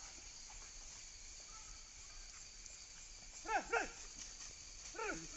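A dog barking: two quick pairs of short barks, the first pair about three and a half seconds in and the second at the very end.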